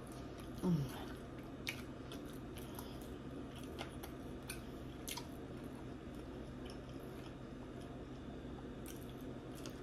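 Close-up chewing of lamb chop meat, with scattered small wet mouth clicks and smacks. About a second in, the eater gives a short hum that falls in pitch; this is the loudest sound.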